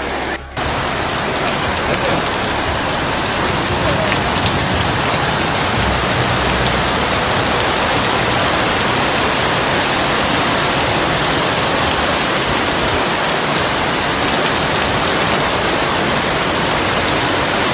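Heavy downpour: rain pouring hard in a dense, steady hiss, briefly cut off about half a second in.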